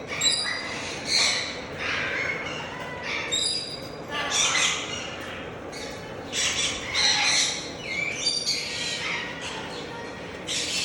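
Parrots squawking and screeching in a string of harsh calls, roughly one a second, with a few short whistled notes mixed in.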